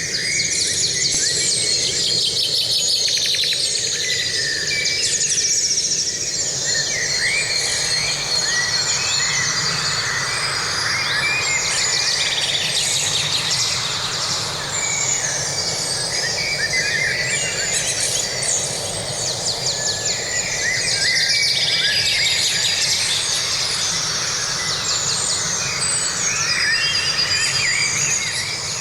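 Forest ambience: many birds chirping and trilling at once, a busy dawn-chorus-like mix of overlapping calls, over a steady background hiss.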